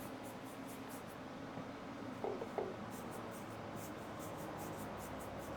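Paintbrush stroking watercolor across a wood panel: faint, steady scratching made of quick repeated strokes, with two light taps a little over two seconds in.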